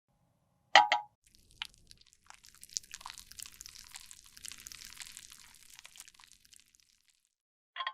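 Close-miked handling of makeup material: a sharp tap about a second in, then several seconds of fine, dense crackling and crunching, and a short click near the end.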